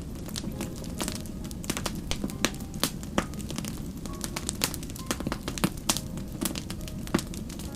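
Wood fire crackling, with many irregular sharp pops over a steady low rumble of burning.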